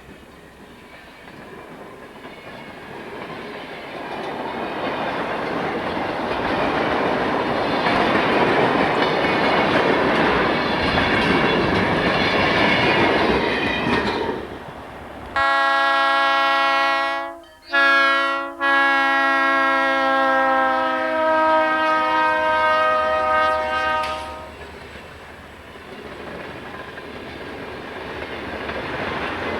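Freight train passing with its diesel locomotives, the rolling noise building as it approaches. About halfway through, the locomotive's air horn sounds for about eight seconds with a brief break, then the train noise drops away and builds again near the end.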